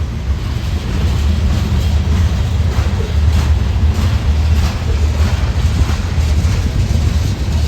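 A train passing close by: a loud, steady low rumble with the rush and clatter of wheels on rail.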